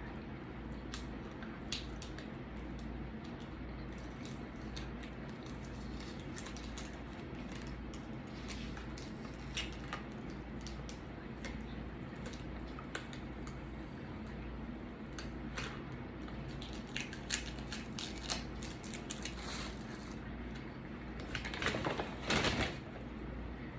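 Eating and food handling: scattered small clicks, taps and rustles over a steady low hum, with a louder rustling cluster about 22 seconds in.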